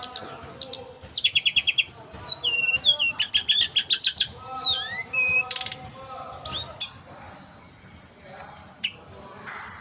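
A tledekan gunung songbird singing a fast, varied song of rapid trilled notes, falling and rising whistles and short sweeps. It pauses for a few seconds past the middle, then starts a new phrase near the end.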